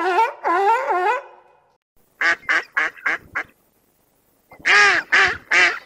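Waterfowl calling: a wavering call or two at the start, then a quick run of five short honking calls, and after a pause of about a second another quick, louder run of calls.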